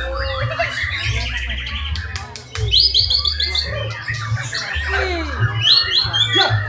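White-rumped shamas singing several at once: rapid chattering trills, clear whistles and falling glides, one overlapping another.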